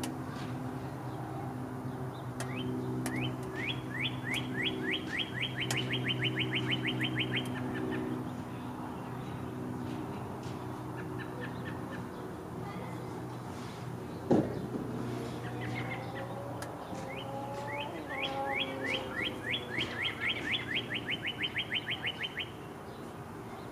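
A songbird sings two trills of quick repeated high notes, one in the first few seconds and one near the end, over a steady low mechanical hum that stops about two-thirds of the way through. A single sharp knock sounds just past halfway.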